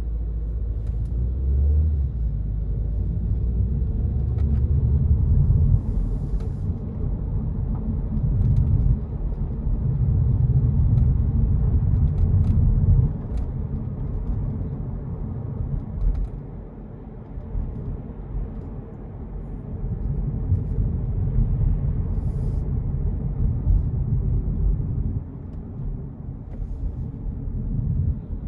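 Car on the move with a low hum and rumble, swelling and easing several times. This is the humming that appeared after the anti-roll bar bushes were replaced, which the owner doubts is coming from the wheel bearings.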